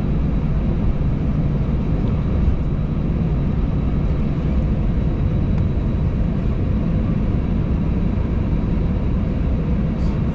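Steady drone inside an Airbus A320's passenger cabin: the engines running at idle, with the air-conditioning hiss, just before take-off.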